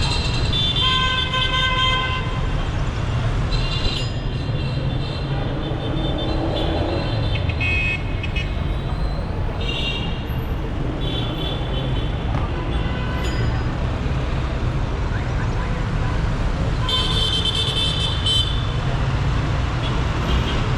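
Dense city traffic running steadily, with car horns honking repeatedly: several short toots in the first few seconds and in the middle, and a longer, louder blast about three-quarters of the way through.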